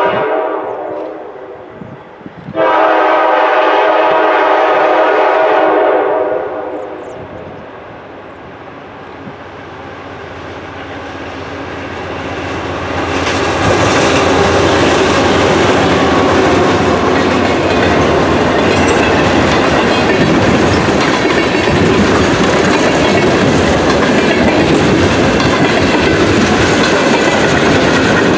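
Freight train led by two GE C40-8 diesel locomotives: the horn sounds briefly at the start and again in a long blast from about three to six seconds in. The locomotives' rumble then builds and passes close by about halfway through, giving way to a steady clatter of freight-car wheels on the rails.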